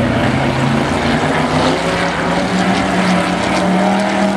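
Racing truck engines running hard, one engine's note rising steadily as it accelerates.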